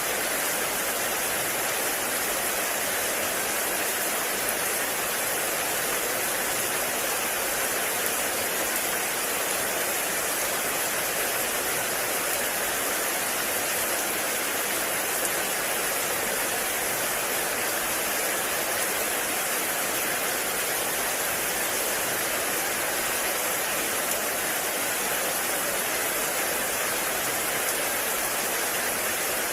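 Heavy rain falling steadily in a forest, a dense even hiss of rain with no breaks or changes.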